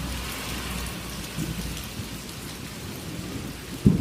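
Heavy rain pouring down in a steady hiss, with a low rumble of thunder fading away in the first second. A short, loud low thump comes just before the end.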